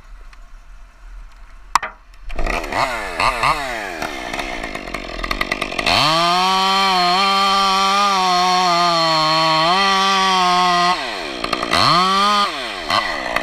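Chainsaw engine coming to life about two seconds in and revving up and down. It then holds at high, steady revs for about five seconds, drops back and revs up again near the end.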